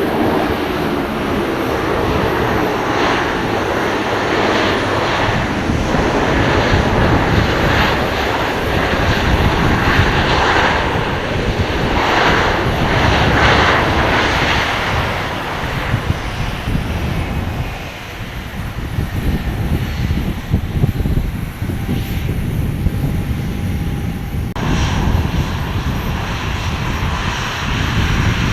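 Airliner engines running loud, a broad roaring rush with a deep rumble that eases a little past halfway, leaving mostly the low rumble.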